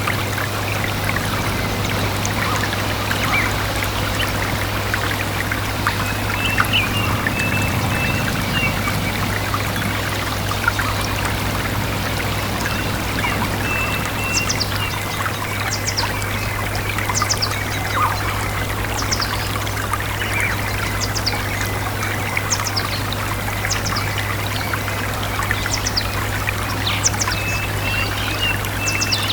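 A small stream trickling and babbling steadily, with birds chirping in the background in short, high, falling chirps that come more often in the second half.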